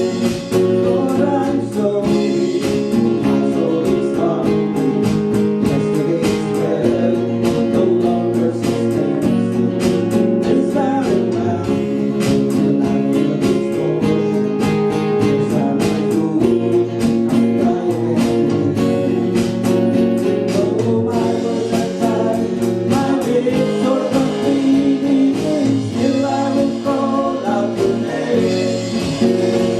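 Gospel song sung to a strummed guitar, with a steady rhythmic strum under the voice.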